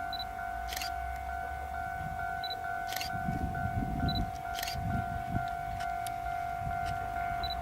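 Railway level-crossing warning bell ringing steadily, a repeated pulsing tone about twice a second, with sharp clicks every second or two and a low rumble about halfway through.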